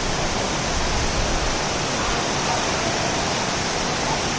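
Small stream running, a steady rush of water.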